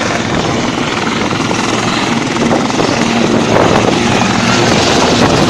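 Helicopter turbine and rotor running loud and close, a dense steady noise that grows slowly louder.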